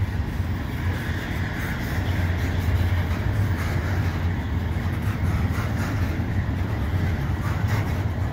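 Freight train rolling past: a steady low rumble of double-stack container cars on the rails, with the diesel locomotives heading the train pulling away.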